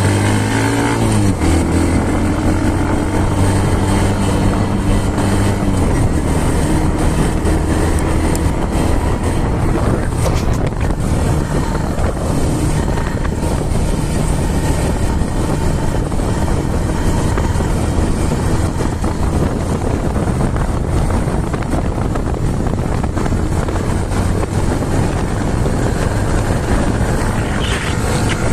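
Motorcycle engine running. Its steady hum gives way after about six seconds to a continuous rushing noise with the engine underneath.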